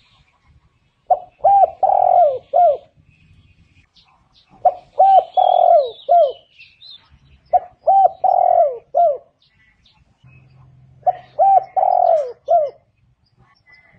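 Spotted dove singing its cooing song: four repeated phrases about three seconds apart, each made of a few short coos with a longer coo in the middle and a short falling note at the end.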